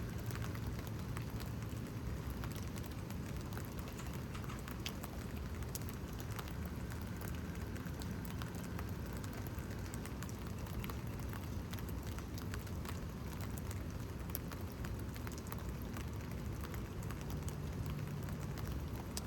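Steady rain falling, with many small scattered drop ticks.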